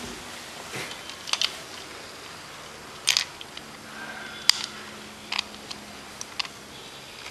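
A series of short, sharp clicks and taps, irregularly spaced, the loudest about four and a half seconds in.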